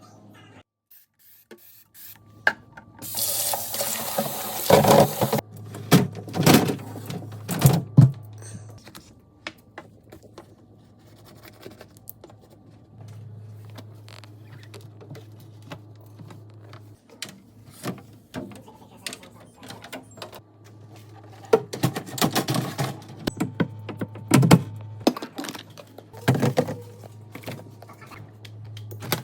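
Handling noises from cleaning out a refrigerator: scattered knocks and clatters of containers and shelves. A few seconds of hissing, rushing noise come about three seconds in. An intermittent steady low hum runs underneath.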